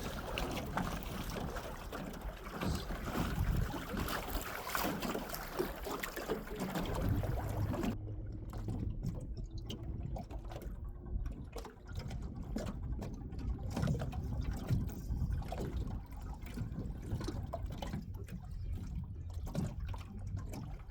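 Water lapping and trickling against a small boat's hull, with scattered light clicks and knocks. The higher hiss drops away about eight seconds in.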